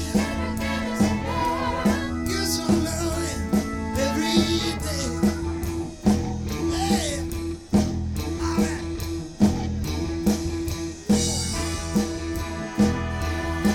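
A live band playing, with the drum kit keeping a steady beat of about one strike a second under bass and guitar.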